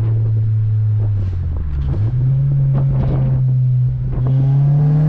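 8th-gen Honda Civic Si's 2.0-litre four-cylinder engine and exhaust droning steadily under way. The revs dip and come back up about two seconds in, then climb slightly near the end.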